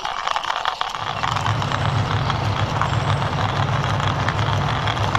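Toy military tanker truck pushed along by hand: its plastic wheels and body rolling and rattling, with scattered clicks. A low steady rumble joins about a second in.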